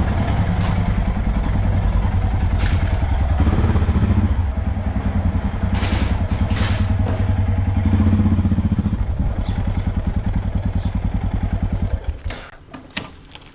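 Enduro motorcycle engine running with a steady, evenly pulsing low beat. It drops away sharply about twelve seconds in, leaving a few clicks.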